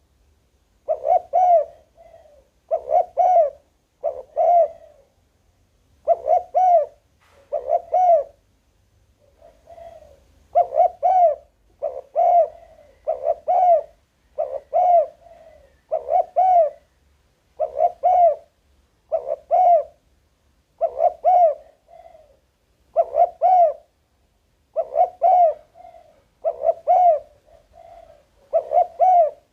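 Spotted dove cooing over and over, in short phrases of two or three notes, each note rising and falling in pitch, a phrase about every two seconds.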